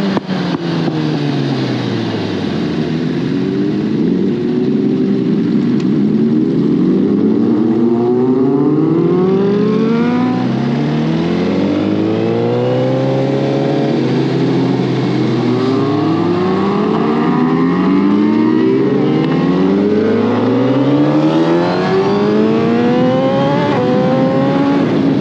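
Suzuki GSX-R1000R inline-four superbike engine under way, its revs sweeping up and dropping back again and again as it accelerates and shifts gears, with a steadier stretch around the middle.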